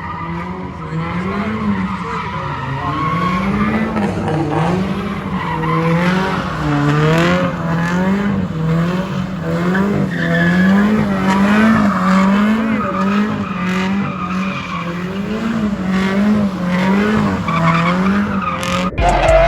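A car engine revving up and down about once a second while its tyres squeal in a long slide.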